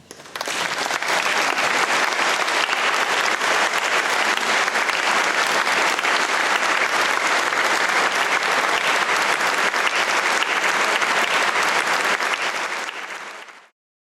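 Concert audience applauding steadily after a violin piece, a dense even clapping that starts abruptly and fades out near the end.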